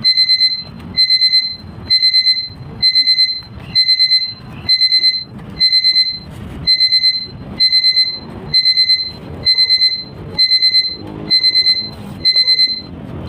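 Electronic alarm beeping in quick groups of four high beeps, about one group a second, repeating without a break, with irregular thuds underneath.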